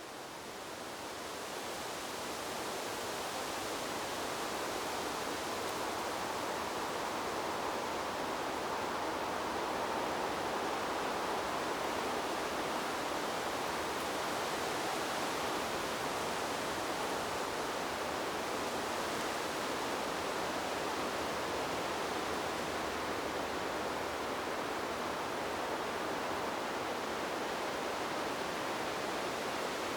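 Wind blowing through trees: a steady, even rushing hiss that rises in level over the first few seconds and then holds.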